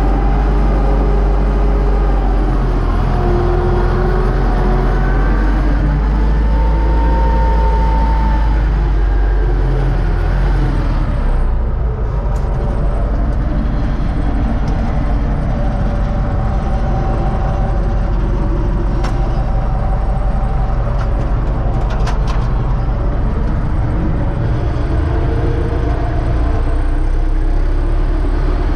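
UTB Universal 650 tractor's diesel engine running steadily, with a few light clicks in the second half.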